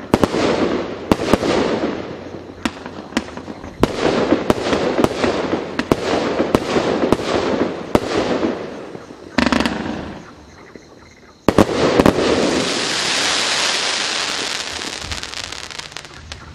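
A 49-shot, 1.2-inch (30 mm) consumer firework cake firing its last shots in quick succession, at times about two a second, each launch and break followed by a noisy tail. After a short lull, two last shots about two-thirds of the way through give way to a long hissing wash that slowly fades as the cake finishes.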